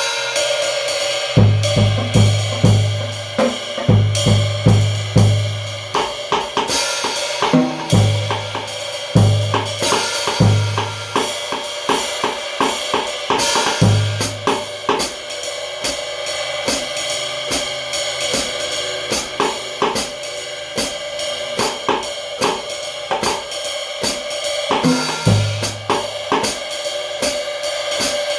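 Drum kit played without accompaniment, featuring Kamin cymbals: cymbals and hi-hat ring continuously over dense stick strokes. Low bass-drum thumps come in clusters, mostly in the first half and once more near the end.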